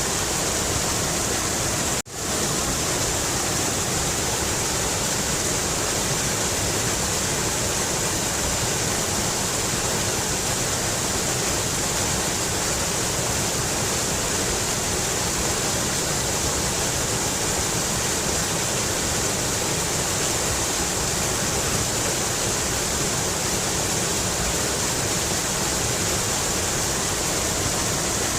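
Mountain river rushing water, a steady dense hiss, with a brief drop-out about two seconds in.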